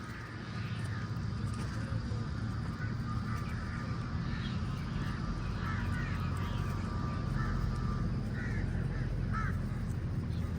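A flock of crows cawing, many short overlapping calls that come thicker from about the middle on, over a steady low rumble.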